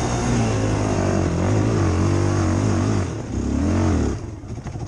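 ATV engine running hard, its pitch rising and falling as the throttle is worked, until it falls away about four seconds in.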